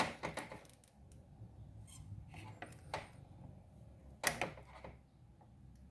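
Small clicks and scrapes of hand tools working on a circuit board while a replacement electrolytic capacitor is soldered in, with a sharper click about four seconds in, over a low steady hum.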